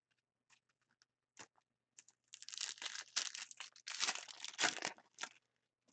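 Trading-card pack wrapper being torn open and crinkled: a few light crackles, then about three seconds of dense crinkling.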